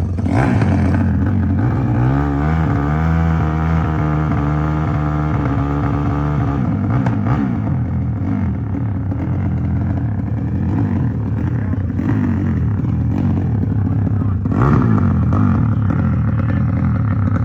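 Motorcycle engine revving: the pitch climbs about two seconds in and holds high for a few seconds, then runs on rougher, with another surge near the end.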